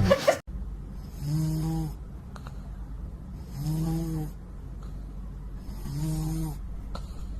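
A cat snoring: three slow snores about two and a half seconds apart, each a low pitched rasp with a breathy hiss.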